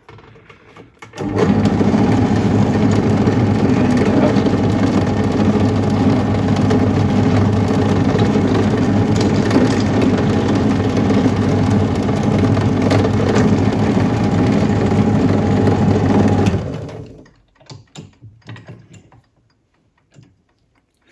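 Electric drill running steadily for about fifteen seconds, boring through the metal detector's cable entry to free the old coil cable, then stopping.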